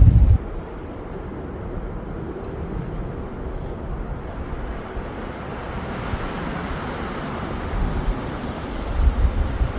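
Steady rushing noise with no clear tones, swelling slightly in the second half and gaining some low rumble near the end.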